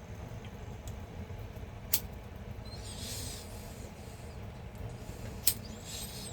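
Steady low background rumble, broken by two sharp clicks, one about two seconds in and one near the end, and two short soft hisses.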